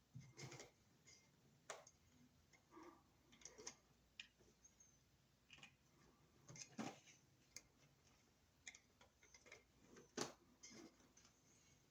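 Faint, irregular small clicks and taps of electrical wires and hand tools being handled while wiring an outlet.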